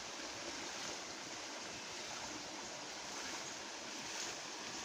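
Steady rushing of fast-flowing floodwater, an even unbroken noise.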